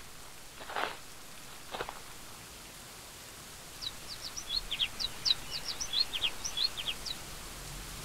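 Two footsteps about a second apart, then a small bird chirping rapidly in quick, high, downward-sweeping notes for about three seconds, over a steady hiss.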